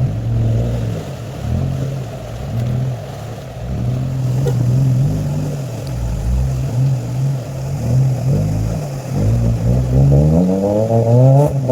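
A 4x4's engine running under changing throttle, its pitch rising and falling, then revving up steeply near the end.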